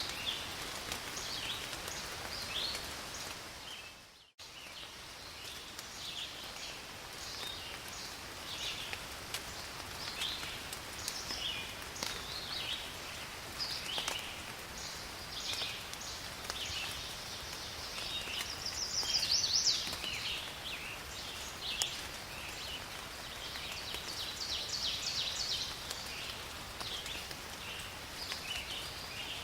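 Rain falling steadily in a forest, with many short, high-pitched animal chirps throughout and a louder run of calls a little past the middle. About four seconds in, the sound fades out almost to silence and then comes back at once, like a loop restarting.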